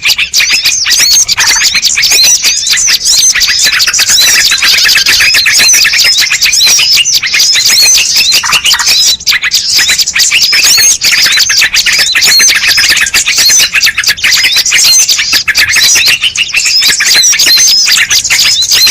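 Bird-lure recording: a dense, unbroken chorus of high, rapid chirps and twitters from small birds, loud and overlapping.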